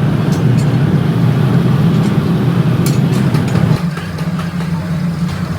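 Heavy machinery running with a steady low hum, with a few faint sharp clicks. The hum drops noticeably in level about four seconds in.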